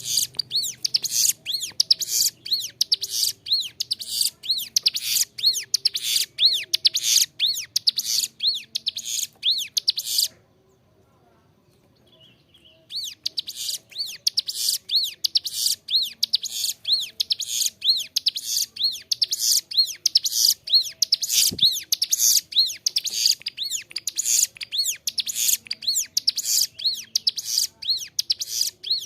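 Ciblek gunung (a prinia) singing a fast, unbroken run of sharp repeated high chirping notes, the lively nonstop 'gacor' song used as a masteran for training cage birds. The song breaks off about ten seconds in for roughly three seconds, then starts up again.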